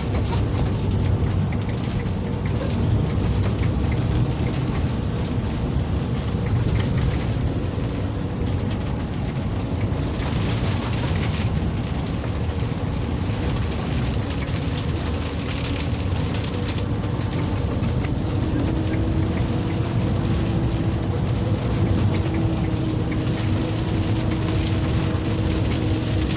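Mining machinery's engine running steadily, with rain falling.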